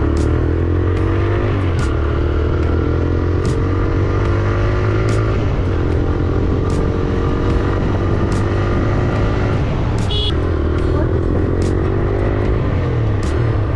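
TVS Raider 125's single-cylinder engine and exhaust under way, the revs climbing several times and dropping back, as through gear changes. A short high beep about ten seconds in.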